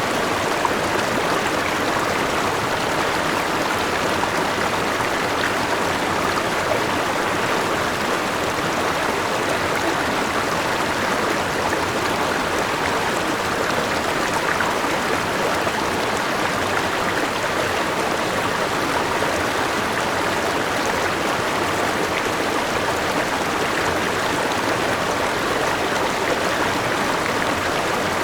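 River with a waterfall flowing, a steady, even rush of water that does not change.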